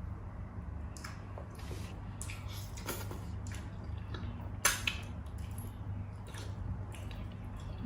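Soft wet squishing and scattered small clicks of eating and tableware, with one sharper click about four and a half seconds in, over a steady low hum.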